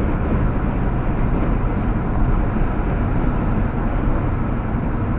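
Steady road noise inside a moving car: an even rumble of tyres and engine with a hiss above it, unchanging throughout.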